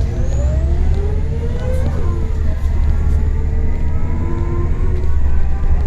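Scania L94UB city bus with an OCS9 compressed-natural-gas engine and a 5HP500 automatic gearbox, pulling away, heard from on board: a heavy engine rumble with whining tones that rise over the first two seconds, then hold steadier.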